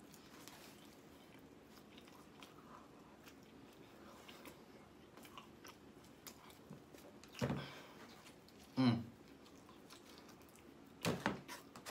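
A person biting and chewing pizza close to the microphone: soft, wet mouth clicks and smacks, with a few short, louder mouth sounds about two-thirds of the way in and again near the end.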